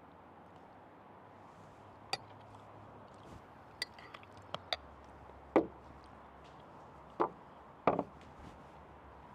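Irregular sharp knocks and clicks of a hard object on wood, about seven spaced unevenly, the loudest a little past halfway. A faint steady background runs underneath.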